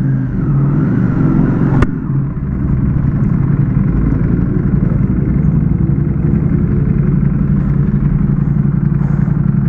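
Ducati Panigale V4S motorcycle engine running steadily at a low, even speed, with no revving, and a sharp click about two seconds in.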